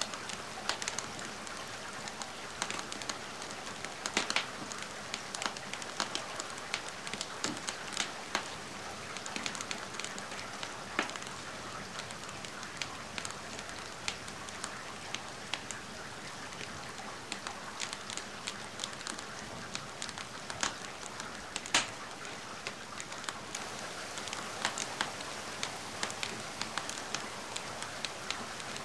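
Steady rain hiss with a wood fire crackling over it, sharp irregular pops scattered throughout.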